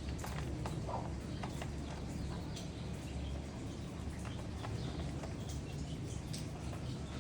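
Pigeons feeding: many small, irregular clicks and taps of beaks pecking at grain, with a few short high chirps over a steady low hum.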